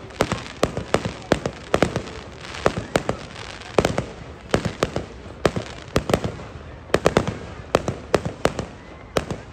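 Fireworks display, aerial shells bursting in rapid, irregular succession at about two or three sharp bangs a second.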